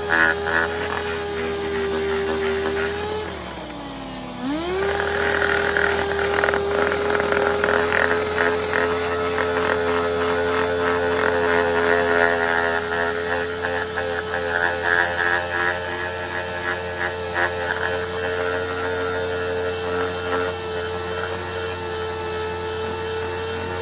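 Electric angle grinder sanding a steel axe head: a steady motor whine with scraping that comes and goes as the abrasive meets the metal. About four seconds in, the motor winds down briefly and then spins back up.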